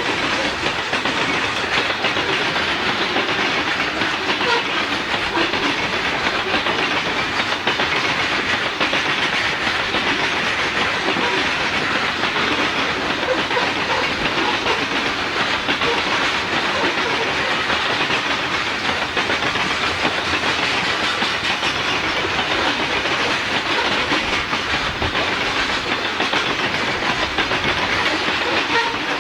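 Freight train cars rolling past, a steady, loud noise of steel wheels running on the rails.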